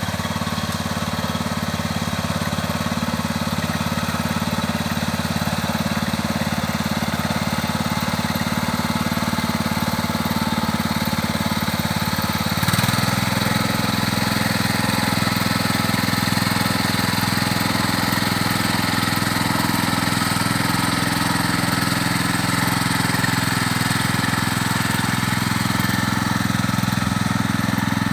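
Small engine of a homemade mini tractor running steadily. About halfway through, its note shifts and it gets slightly louder.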